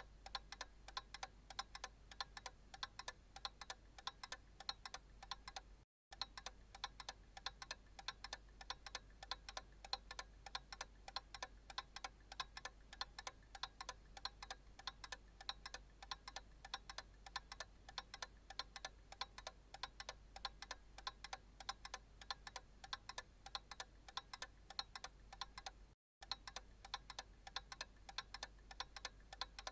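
Analog clock ticking in a steady, even rhythm of sharp ticks. The sound cuts out for a split second twice: about six seconds in, and about four seconds before the end.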